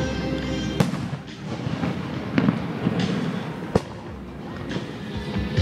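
Fireworks bursting, with two sharp bangs about three seconds apart, over the show's accompanying music.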